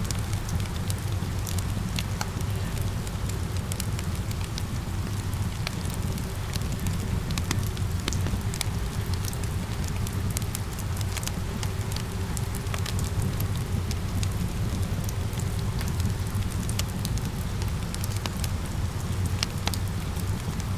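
Fireplace fire crackling with frequent sharp pops, mixed with steady rain and a low rumble.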